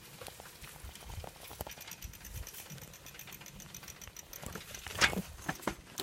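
Irregular soft thumps and scuffs of movement, with a faint, high, rapid ticking through the middle few seconds and a sharper knock about five seconds in.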